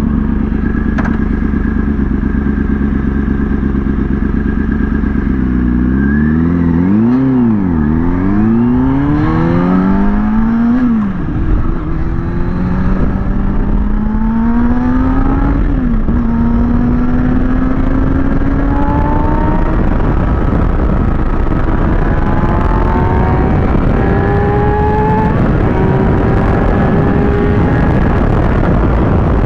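Kawasaki ZX-6R's inline-four engine running steadily, then revved up and down several times in quick blips from about six seconds in. It then pulls away with rising revs, drops briefly in a gear change about sixteen seconds in, and climbs slowly and steadily in pitch under acceleration, with wind rush.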